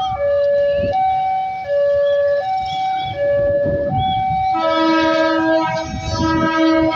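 Railway level-crossing warning alarm alternating steadily between two tones, high then low, about every 0.7 s. About four and a half seconds in, a train horn sounds a long multi-note chord over it, with the rumble of the train beneath.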